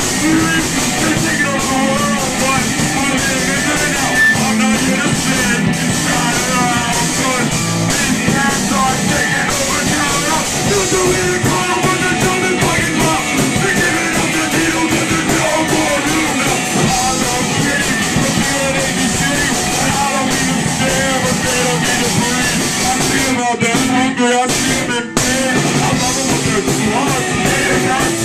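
Punk rock band playing live at full band volume, with a brief stop in the music about three-quarters of the way through.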